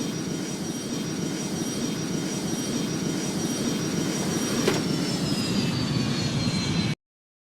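Airbus A310 jet engines running, with a steady high whine that begins to fall in pitch about five seconds in as the aircraft passes. The sound cuts off abruptly near the end.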